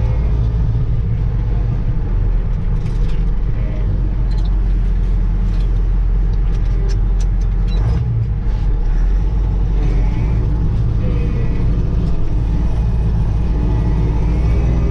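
Kirovets K-700A tractor's diesel engine running steadily while being run in after an overhaul with new pistons, with a few light clicks about halfway through.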